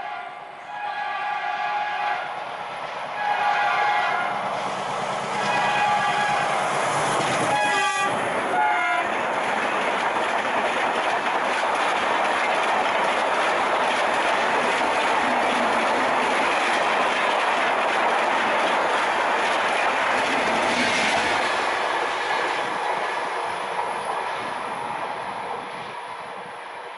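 WDM3A diesel locomotive sounding its horn in repeated blasts as it approaches at speed; the horn drops in pitch as the locomotive passes about eight seconds in. Its passenger coaches then go by with a loud rushing clatter of wheels over the rails, which fades near the end.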